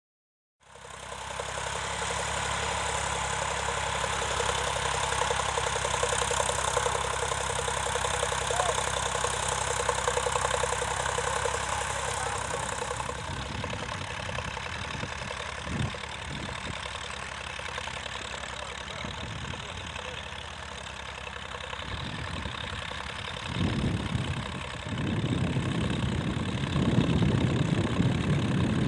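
Tractor engine running steadily, starting about half a second in; in the last few seconds an uneven heavier low rumble joins it.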